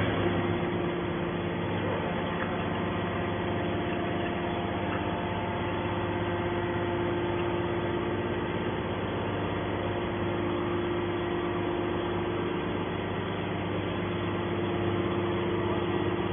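Hydraulic baler's power unit, an electric motor driving the hydraulic pump, running with a steady, even hum.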